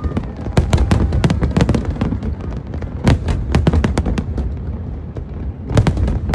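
Fireworks exploding in rapid, irregular volleys of sharp bangs over a continuous deep rumble, with the densest clusters about half a second in, around three seconds in, and just before the end.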